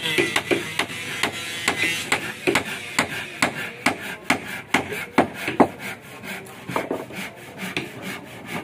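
Hammer knocking on wood, a steady run of sharp blows about three a second, some louder than others.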